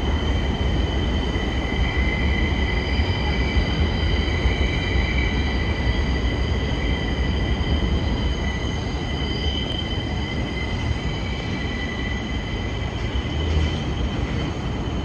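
New York City subway train running through the station, its wheels squealing steadily in several high-pitched tones over the low running noise of the cars.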